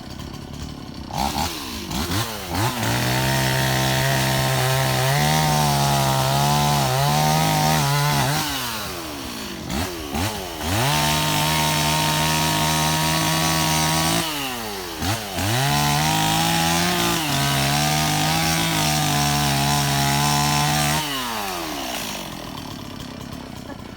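Chainsaw revved to full throttle and cutting three times, each burst several seconds long, dropping back to idle between cuts and at the end.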